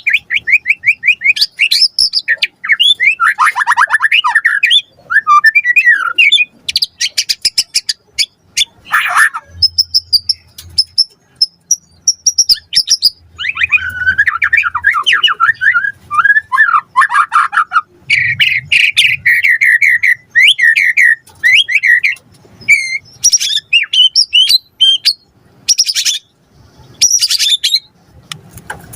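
White-rumped shama singing a long, varied song of rapid trills, clear whistles and harsh chattering phrases with brief pauses between them.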